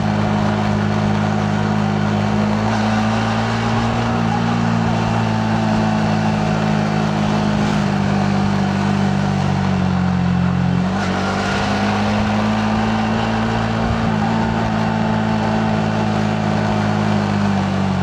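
Yamaha MT-15's 155 cc single-cylinder engine running under way, heard from the rider's position with wind and road noise. The engine pitch wanders a little, dips briefly about eleven seconds in, then climbs again.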